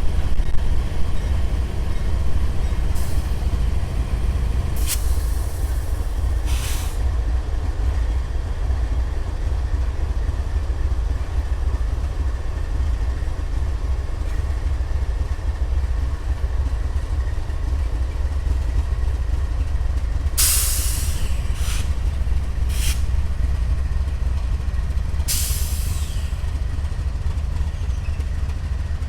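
Diesel freight locomotives rumbling low and steady as an empty grain train starts up and pulls away. Several short hisses of air, typical of the air brakes, come through: a few in the first seven seconds and three more in the second half.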